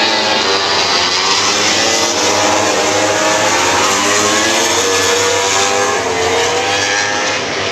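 A pack of MotoGP race bikes going by at racing speed, several engines revving at once with their pitches rising and falling through gear changes.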